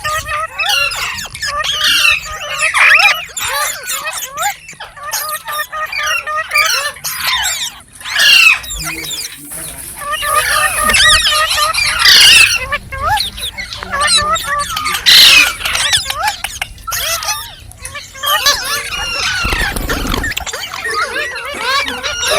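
Green parrots chattering and squawking: a rapid stream of short chirps, squeals and whistles, with louder squawks about 8, 12 and 15 seconds in.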